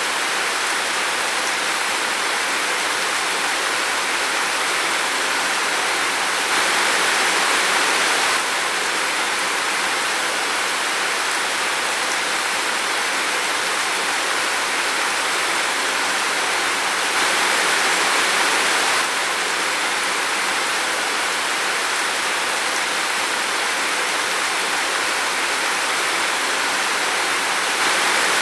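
Steady rain falling in a forest: an even rushing hiss with no separate drops standing out, swelling slightly louder twice for a couple of seconds.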